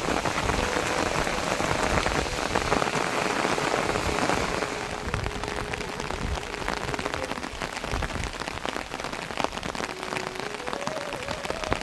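Steady rain falling on surfaces, a dense patter of individual drops. The rain eases a little about four to five seconds in.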